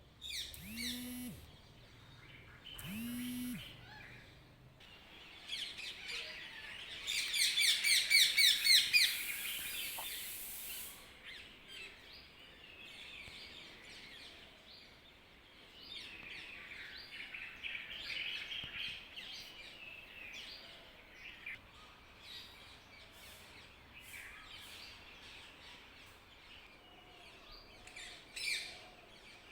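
Several birds chirping and calling in a dawn chorus, with a loud, rapid trill of repeated notes lasting about two seconds some seven seconds in. Two lower, drawn-out calls sound in the first few seconds.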